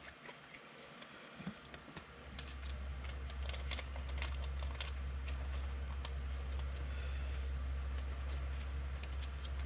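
Scattered light clicks and taps, irregular and fairly quiet, over a steady low hum that comes in about two seconds in.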